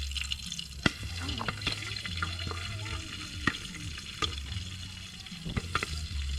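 Microwave popcorn cooking in its bag over a wood fire: a steady sizzling crackle with a few sharp pops scattered through it.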